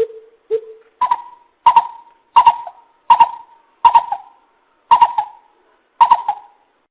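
Greater coucal calling: two low hoots, then a series of seven sharper, higher notes that come roughly one every 0.7 s and space out toward the end.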